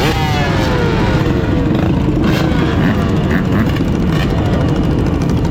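Several mini bike engines running, their pitch falling over the first second or so, over a constant heavy low rumble.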